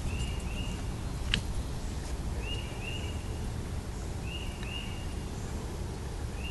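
A bird calling: short two-note calls repeated about every two seconds, over faint outdoor background noise. A single sharp click comes about a second in.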